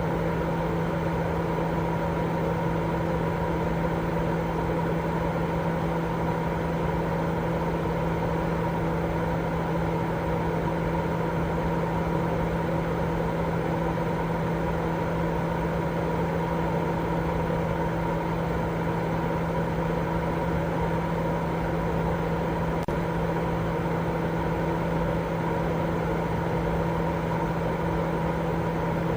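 Continuous sleep white noise: a steady, unchanging rushing hiss with a constant low hum under it.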